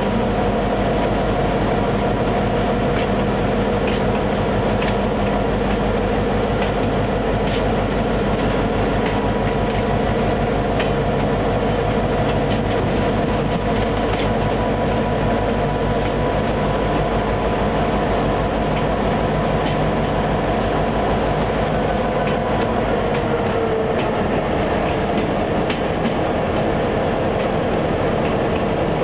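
EMD SD50 diesel locomotive and its train running steadily along the track, a continuous mechanical rumble with a few faint clicks. A high whine and a mid tone dip slightly in pitch about 23 seconds in as the deep rumble eases.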